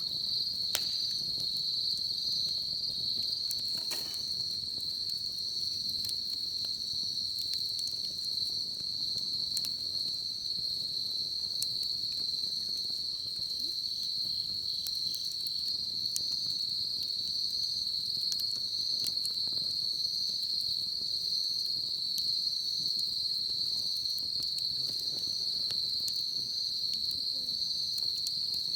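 Insects trilling in one continuous, even, high-pitched drone, with scattered faint crackles and pops from a wood bonfire.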